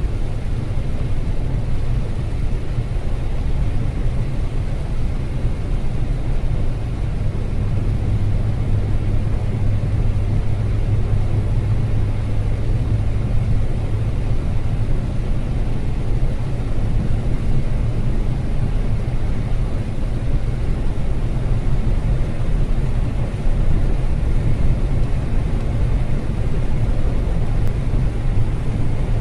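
Car driving on a rain-wet road: a steady low rumble of engine and tyres with a constant noisy hiss above it.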